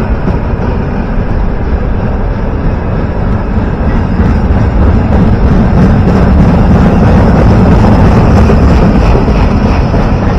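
A train passing close by: a loud, steady rumble of wheels on the rails that grows louder about halfway through.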